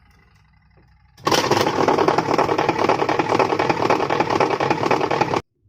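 Twin-tub washing machine running with a loud, fast rattling mechanical noise that starts about a second in and cuts off suddenly near the end. The noise is the sign of a broken part in the wash drive, the fault that also stops the drum turning when there is laundry in it.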